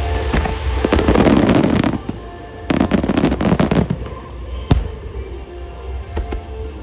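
Fireworks going off in two dense clusters of rapid crackling bursts, then a single sharp bang about three-quarters of the way through. Show music plays loudly underneath throughout.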